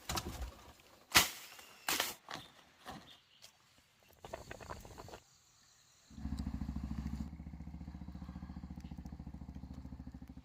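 A few sharp knocks and a short rattle, then a small engine starts running steadily with a fast, even low pulse about six seconds in.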